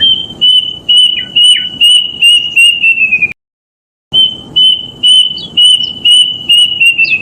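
Kedasih cuckoo (Cacomantis) song played as a lure: a phrase of about ten clear whistled notes that speed up and fall slightly in pitch at the end, then after a short pause the same phrase again.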